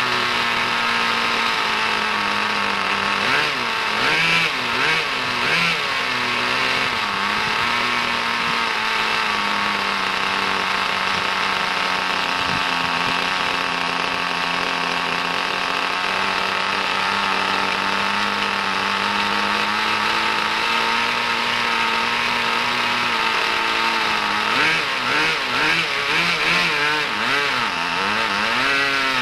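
Small nitro engine of an RC car (Kyosho GS11X), brand new and on its first run, running steadily. The throttle is blipped a few times, so the pitch rises and falls, about 3 to 7 seconds in and again near the end.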